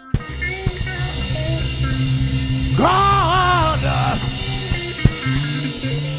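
Gospel band starting a song: drum kit, bass guitar and electric guitar playing together, with a bending, wavering lead note rising over them about three seconds in.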